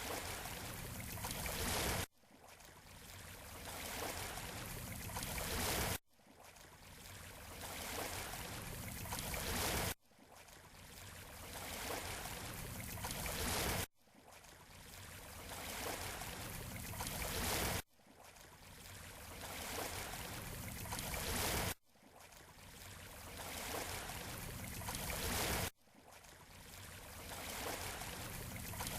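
Surf on a beach shore, a short recording looped about every four seconds: each pass swells from quiet to loud, then cuts off abruptly before starting over.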